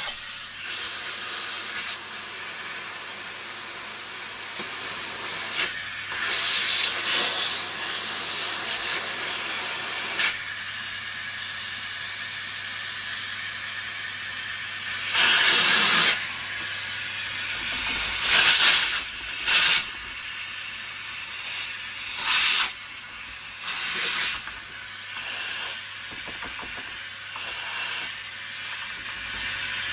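Steady rush of air over a faint low hum, with several louder blasts of air, from air being used to clean dust off vacuum cleaner parts.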